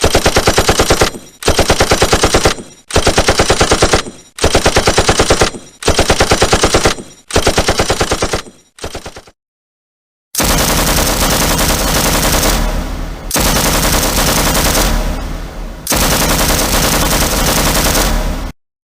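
Automatic gunfire: about seven bursts of rapid shots, roughly a second long each, then after a short pause a longer, denser stretch of rapid fire with a heavy low end that eases briefly twice.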